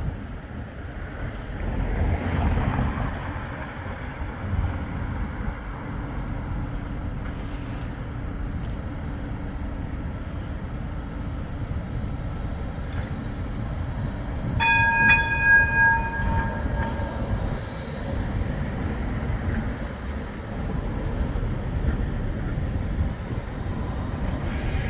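Flexity 2 tram running with a steady low rumble. A held horn note of about two seconds sounds just past the middle.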